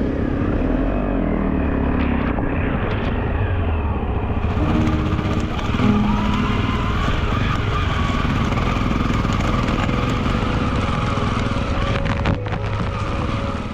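Honda CRF250L dual-sport motorcycle's single-cylinder engine running steadily under way, with a short sharp knock about twelve seconds in.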